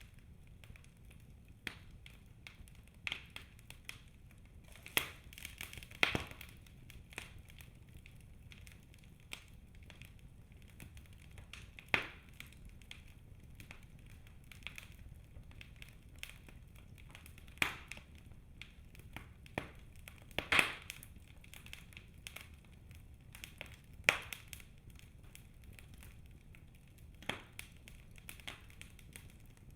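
Wood fire burning in a fireplace: quiet crackling with sharp snaps and pops at irregular moments, a louder one every few seconds, over a faint low steady rumble of the flames.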